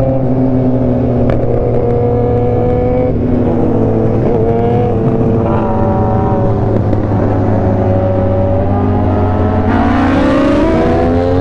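Motorcycle engine running under way, holding a steady note, then rising in pitch as it accelerates near the end.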